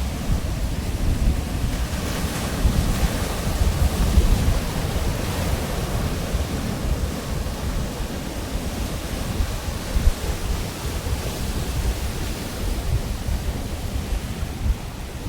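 Pacific Ocean surf breaking and washing up the beach, a continuous rush that swells for a few seconds and then eases, with wind rumbling on the microphone.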